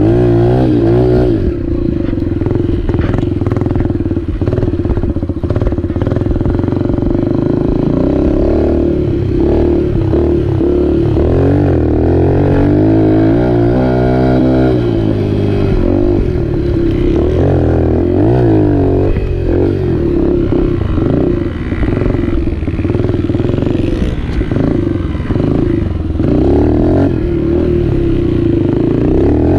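Dirt bike engine running and revving up and down again and again as the throttle is opened and closed.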